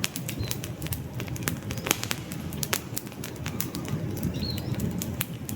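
Wood campfire burning, crackling with frequent sharp pops over a steady low rumble of the flames. Brief faint bird chirps twice.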